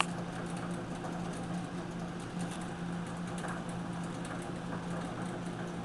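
Steady hum of an old furnace blower fan blowing air through a hot-water radiator, with the radiator's circulating pump running.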